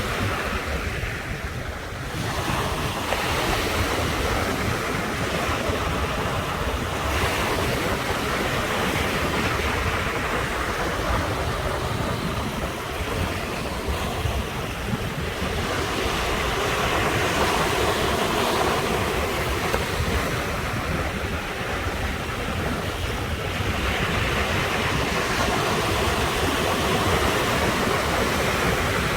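Ocean surf washing in continuously, swelling with each breaking wave every several seconds, with wind rumbling on the microphone.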